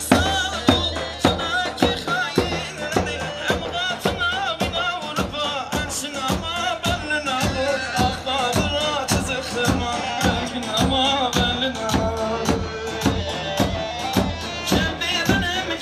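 Instrumental Turkish halay folk dance music: a steady, fast drum beat under an ornamented, wavering melody.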